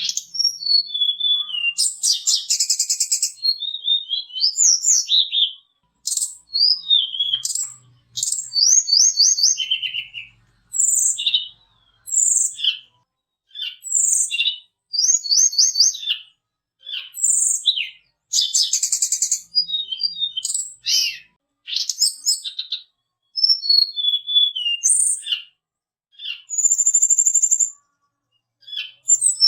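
Tledekan gunung (sulingan) songbird singing loud, high whistled phrases of one to two seconds, mixing clear slurred notes with fast trills, each phrase followed by a short pause.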